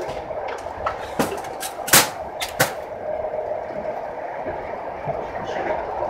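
Aeroexpress electric train running on the rails, a steady rumble with a few sharp clacks in the first three seconds, the loudest about two seconds in.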